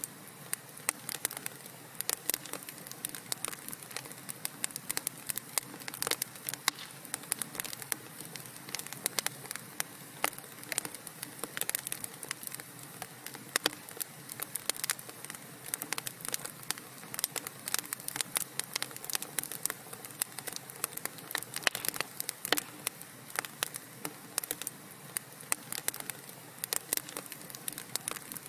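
Wood fire burning in a fireplace, crackling with many sharp, irregular pops and snaps over a soft steady hiss.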